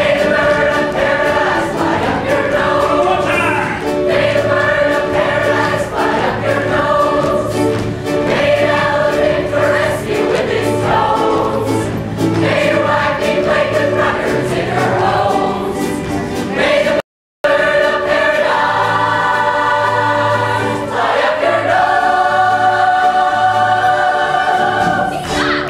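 Several voices singing together with a band backing them over a steady bass pulse. The sound cuts out completely for a moment a little after two-thirds of the way through.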